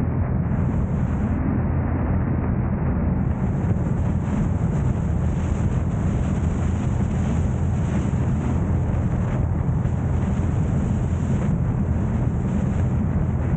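Steady low rumble of a car driving, with road noise and wind buffeting the microphone.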